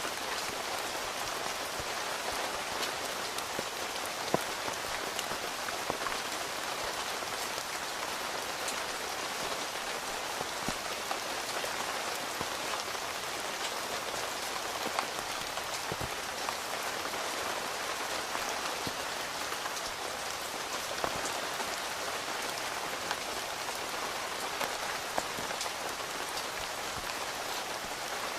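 Steady rain pattering on a tent's fabric, with scattered louder single drops striking now and then.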